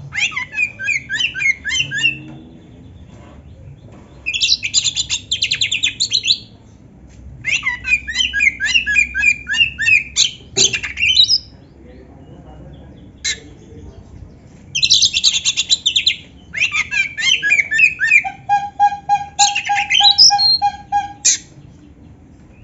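Oriental magpie-robin (kacer) singing in loud bursts of fast, varied phrases with short pauses between them, ending in rapid trills. Its song is filled with phrases learned from a canary.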